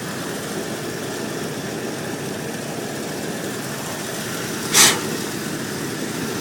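A 1981 Buick Electra 225's 4.1-litre carbureted V6 idling steadily. A brief sharp hiss cuts in about five seconds in.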